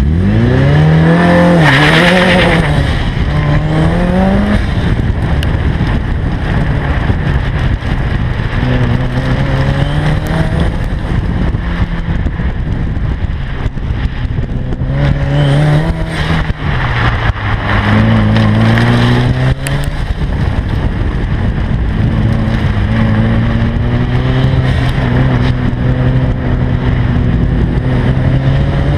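2003 Mitsubishi Lancer Evolution VIII's turbocharged 2.0-litre four-cylinder engine driven hard on an autocross run. It revs up sharply from the launch, drops back and climbs again, then keeps rising and falling in pitch as the car accelerates and lifts between corners.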